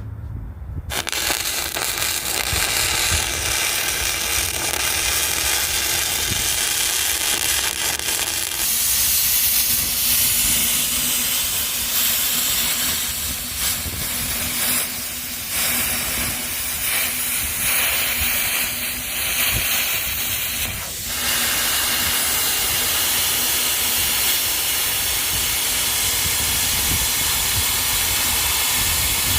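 Electric arc welding on a steel stove body: a steady, loud hissing crackle of the arc, which changes a little about a third of the way in and breaks off briefly about two-thirds through before starting again.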